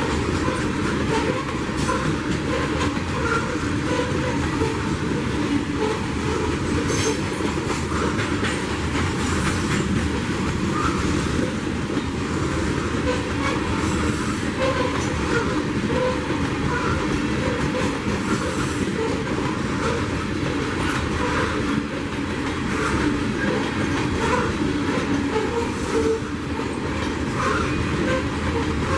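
Freight train rolling past, a steady rumble of railroad cars with faint wheel clicks over the rail joints.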